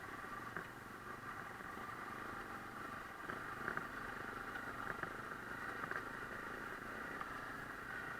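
Honda CRF250L dirt bike's single-cylinder four-stroke engine running steadily, with scattered light clicks.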